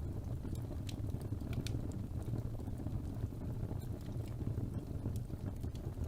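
Wood fire burning in a fireplace: a steady low rumble of flames with small sharp crackles and pops about once a second.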